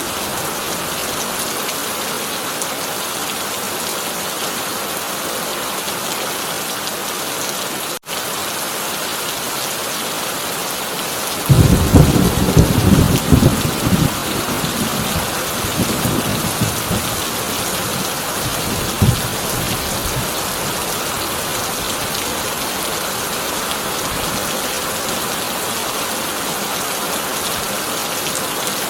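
Heavy rain drumming steadily on a corrugated tin roof. About eleven seconds in, thunder cracks and rumbles loudly for a few seconds, then fades away under the rain. The sound drops out for an instant about eight seconds in.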